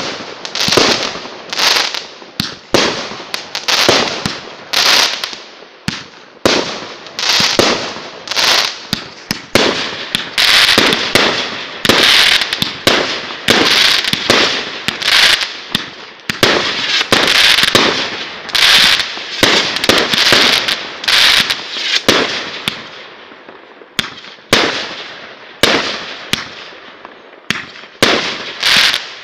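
Aerial fireworks bursting overhead in a fast, continuing string of loud bangs, about one to two a second, each trailing off in a hiss as the stars fall.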